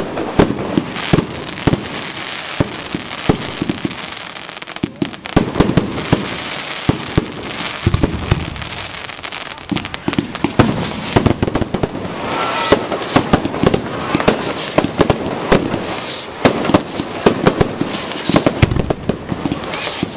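Fireworks display: a dense, continuous barrage of bangs and crackling, with a brief lull about four seconds in.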